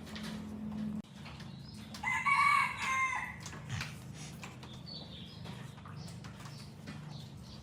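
A rooster crowing once, a call of about a second that drops in pitch at the end, about two seconds in. Under it are faint scattered clicks and a low hum that stops about a second in.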